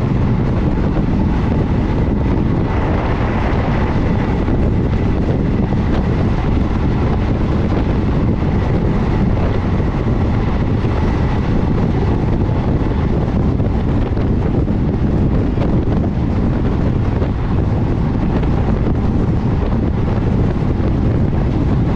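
Steady running noise of a moving passenger train, heard from on board, with wind buffeting the microphone. A faint thin whine sits over it for a few seconds.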